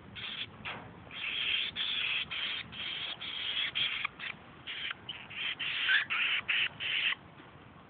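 A young bird giving a long run of short, harsh, raspy calls in quick succession, which stop about seven seconds in.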